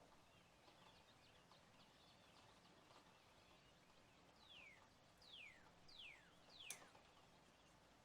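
Faint bird calls: four whistled notes, each sliding steeply down in pitch, about half a second apart, after scattered soft chirps. A single sharp click, the loudest sound, lands during the last whistle, over a faint steady hiss.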